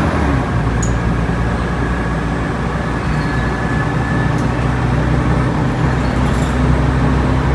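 Alexander Dennis Trident Enviro 500 double-decker bus with a ZF gearbox running under steady load, a continuous drone with a faint high whine about two to four seconds in.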